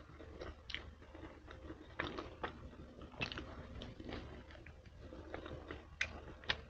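A person chewing and biting into a bacon cheeseburger with a thick pretzel-style bun, giving many short mouth clicks and smacks.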